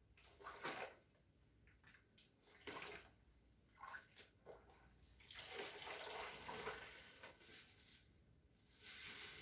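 Water splashing and running during wet cleaning, in several short bursts, with a longer stretch about halfway through.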